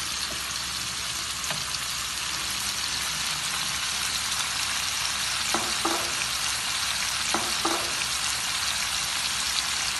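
Chicken pieces and sauce frying steadily in a nonstick wok, stirred with a wooden spatula. Two brief pitched sounds come a little past the middle.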